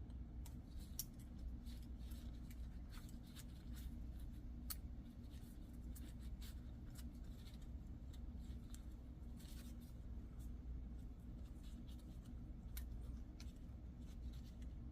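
Scattered light clicks and scrapes of small metal parts being handled, as new piston rings are fitted one by one onto a Polaris 850 engine's piston, over a faint steady low hum.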